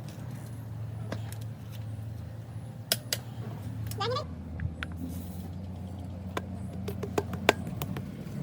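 Workshop sounds: a steady low hum with scattered sharp clicks and taps, and a short rising squeak about four seconds in.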